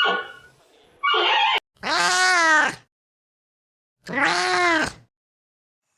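Domestic cat meowing twice, each meow about a second long and rising then falling in pitch, about two seconds apart.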